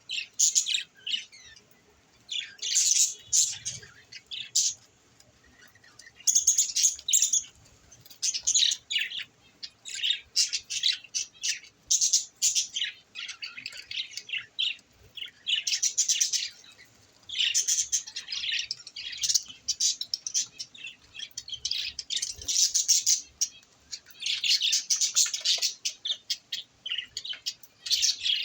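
A flock of budgerigars chirping, in bursts of rapid high chirps and warbles with short pauses between them.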